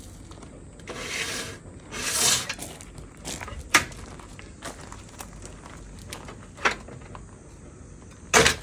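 Rubbing and scraping, two longer scrapes in the first few seconds, then a few sharp knocks, the loudest near the end.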